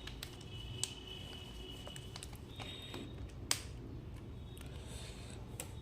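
Quiet handling noise: a few scattered sharp clicks and taps, two of them standing out, over a low hum, with a faint high steady tone in the first half.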